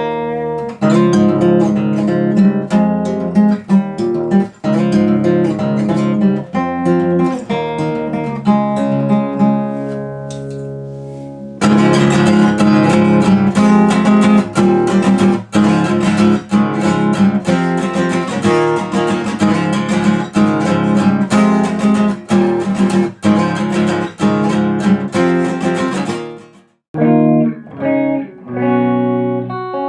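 Guitar being played with picked and strummed notes. About twelve seconds in, the sound turns brighter and fuller. Near the end there is a brief break, and then the playing resumes with a duller, narrower tone.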